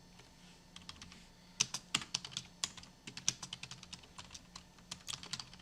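Computer keyboard typing: quick, irregular keystrokes starting about a second in, over a faint steady hum.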